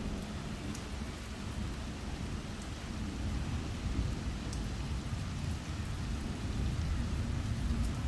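Steady rain falling, with a low rumble of thunder underneath that builds slightly toward the end.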